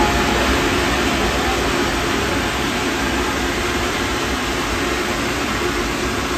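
Steady, loud rushing hiss at a steam train standing at a station stop, holding even throughout.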